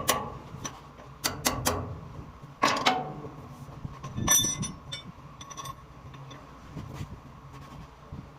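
Metal tools knocking and clinking against hydrant fittings in short clusters, one ringing clink about four seconds in, over a steady mechanical hum.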